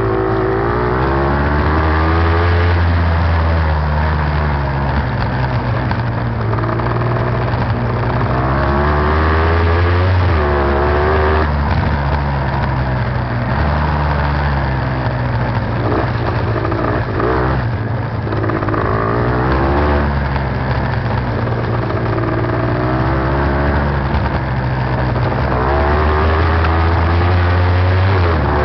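Beta TR 33 trials motorcycle's two-stroke engine, recorded onboard, revving up and dropping back again and again as it is ridden.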